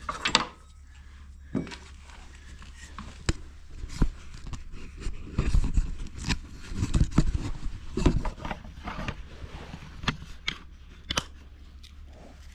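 Tools and parts being handled and set down on a workbench: irregular knocks, clicks and scrapes, busiest in the middle, over a steady low hum.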